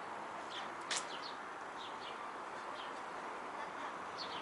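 Small birds chirping in short, scattered calls over a steady outdoor background hiss, with one sharp click about a second in.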